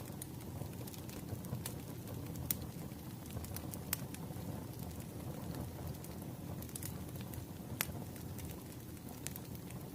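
Burning firewood crackling: scattered sharp pops every second or so over a low, steady rumble of the fire.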